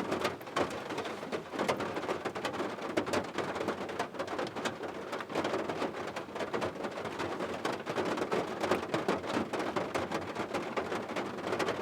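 Steady rain, with many individual drops striking a surface close by in an irregular patter.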